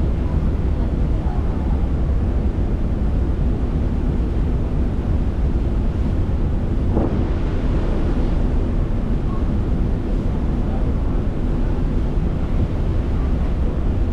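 A ferry's engine drones steadily, with wind buffeting the microphone and the rush of water along the hull. A brief surge of wash noise comes about halfway through.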